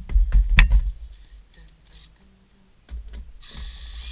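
A quick cluster of sharp knocks and clicks with dull thuds, as of hardware being handled and knocked against wood, then a rasping scrape starting near the end.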